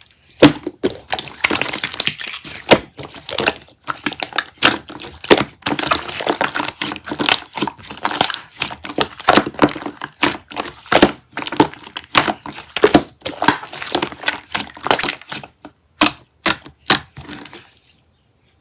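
Rapid, irregular crackling and clicking, stopping about eighteen seconds in.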